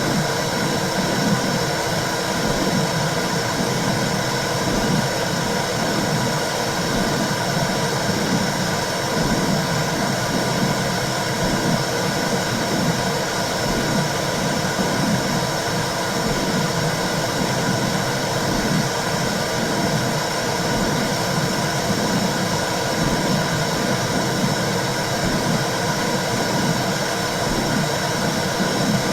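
Womb sound for soothing a baby: a steady whooshing noise with a low pulse repeating about once a second, like blood flow and a heartbeat heard from inside the uterus.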